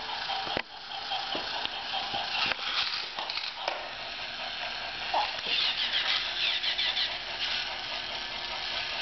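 Toy Percy train's mechanism whirring and rattling steadily, with a few sharp clicks.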